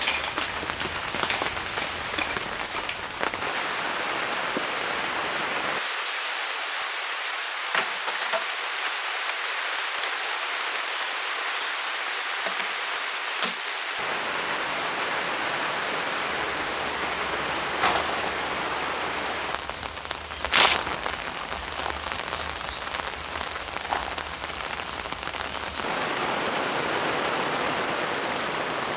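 Heavy rain falling steadily, with scattered drops tapping close by and one louder splash or knock about 21 seconds in.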